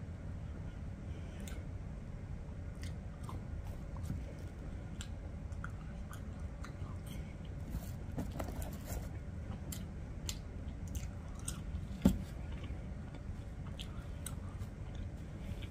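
Close-up chewing of french fries with small wet mouth clicks, over a steady low hum. One sharp knock comes about three-quarters of the way through.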